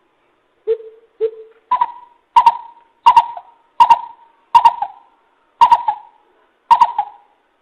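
Coucal (bìm bịp) giving a series of nine hollow hoots. The first two notes are low, and the rest step up to a higher pitch, each about half a second to a second apart.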